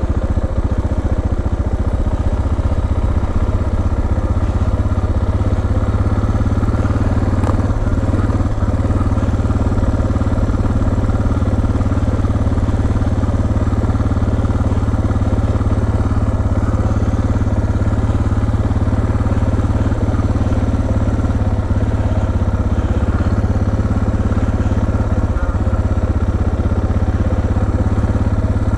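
Motorcycle engine idling steadily close by, with no revving.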